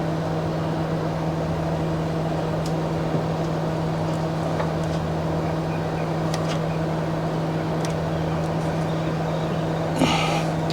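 A steady machine hum holding one low pitch, like a running motor or engine. A few faint light clicks and taps are heard over it, and there is a brief louder rustle near the end.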